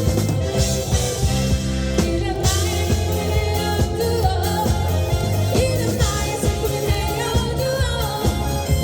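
A live rock band plays a Korean pop song, with a singer's voice over bass, drums and keyboard or guitar. The beat is steady.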